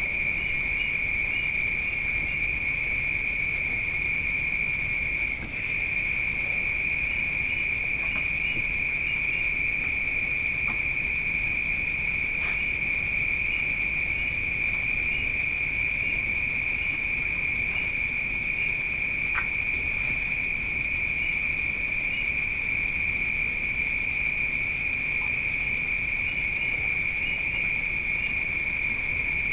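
Night insect chorus: crickets trilling steadily and without a break at two high pitches, one layered above the other, with a few faint clicks.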